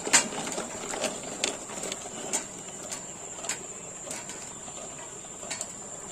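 Steady high-pitched drone of insects in a rice field, with scattered sharp clicks and knocks at irregular intervals, the loudest just after the start.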